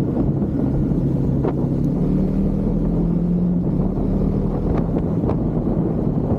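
Husqvarna Svartpilen 401's single-cylinder engine running steadily under way, its pitch rising a little mid-way then easing back, over wind buffeting the microphone.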